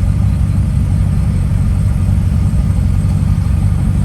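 Car engine idling or rolling slowly: a steady, deep, loud rumble that holds level without revving.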